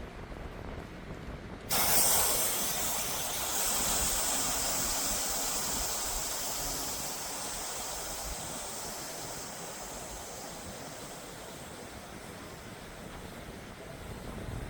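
Air rushing out of an air tent's inflatable air beam: a loud hiss that starts suddenly about two seconds in and slowly fades, with low wind rumble underneath.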